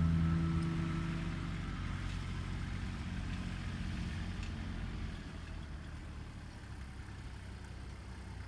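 Background music fading out in the first second or so, leaving a Kubota L3830 diesel tractor engine running steadily, a little quieter after about five seconds.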